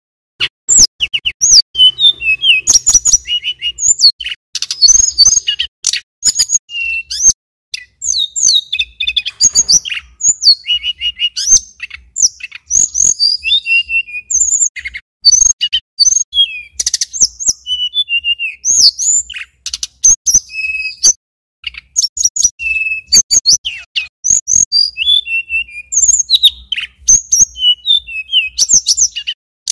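Male tledekan gunung (sulingan gunung) songbird singing almost without pause: rapid high chirps, whistles and short trills, starting about half a second in.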